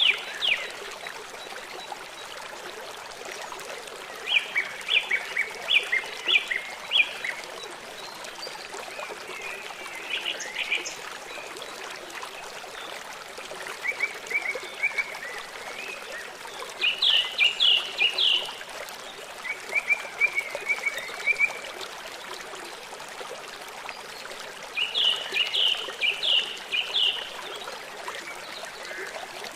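Small songbirds singing: short phrases of rapid repeated chirping notes every few seconds, over a steady trickle of running water.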